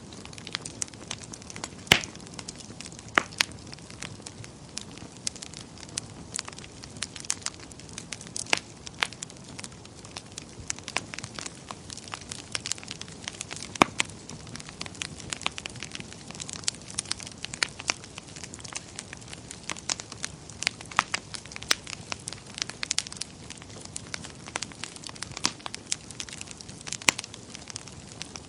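Wood fire crackling in a fireplace: a steady soft hiss and rumble with frequent irregular sharp pops and snaps, a few of them much louder, notably about two seconds in and near the middle.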